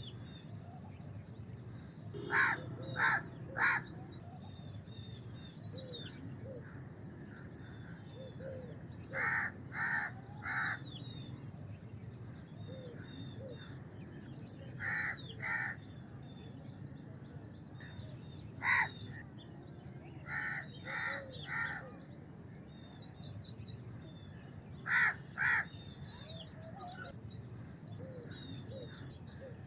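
House crows cawing in short runs of one to three caws every few seconds, the loudest sound throughout. Smaller birds chirp high and continuously behind them, over a steady low background noise.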